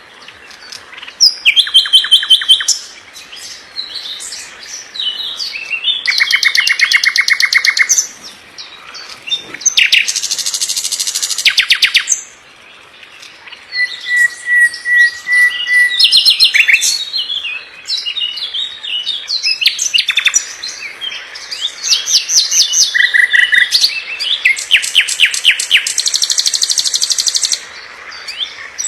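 A songbird singing a varied song: phrases of fast, rattling trills of repeated notes alternating with quick whistles, separated by short pauses, with one held whistle about halfway through.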